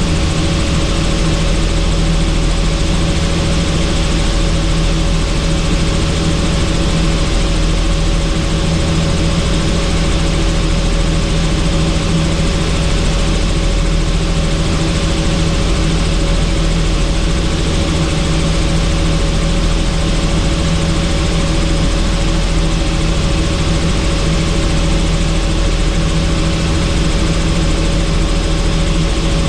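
Helicopter in flight, heard from on board: a steady drone of engine and rotors with a constant hiss, unchanging throughout.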